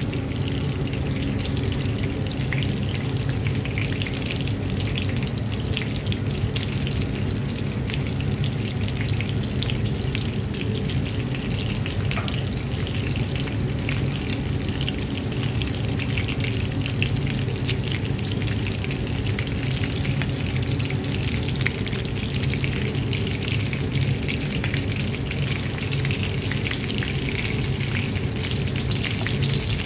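Breaded chicken nuggets and strips shallow-frying in a pan of oil: a steady sizzle made of many fine crackling pops, over a steady low hum.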